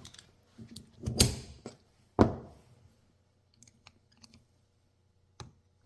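Workbench handling of engine parts and tools: a knock about a second in, a sharp knock with a short ring just after two seconds, then a few light clicks.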